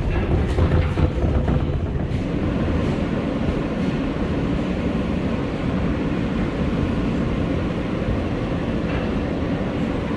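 R143 subway train running slowly over track switches. A few wheel clacks in the first couple of seconds, then a steady rumble.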